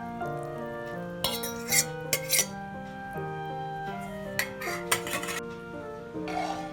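Utensils clinking and scraping against dishes in short bursts: about a second in, again in the middle, and near the end. Steady background music plays underneath.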